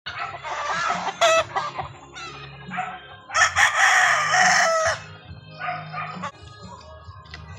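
Roosters crowing: one crow right at the start and a longer, louder crow a few seconds in, with shorter calls after it, over a steady low hum.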